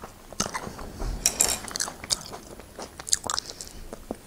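Close-miked mouth sounds of someone eating: irregular chewing with wet clicks and smacks, and a couple of brief crackly bites about a second in and around three seconds in.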